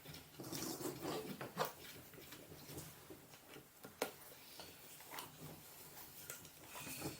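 Hands working on mountainboard truck parts: irregular handling rustles and small clicks, busiest in the first two seconds, with one sharp click about four seconds in.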